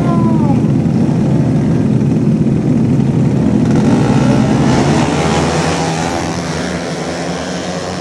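Motocross dirt bike engines running loud. One engine's pitch drops about half a second in, and the sound fades gradually over the last few seconds.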